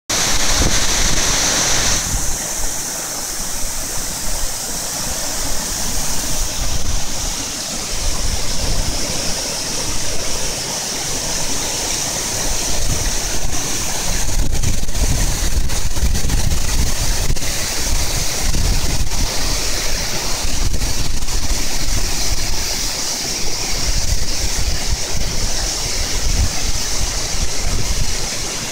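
A waterfall: water falling and splashing with a steady rushing hiss, while wind buffets the microphone with uneven low rumbles.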